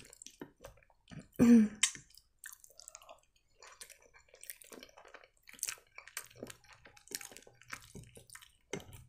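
A person chewing creamy penne in Alfredo sauce with wet, squishy mouth sounds and small clicks, and a short vocal sound about one and a half seconds in.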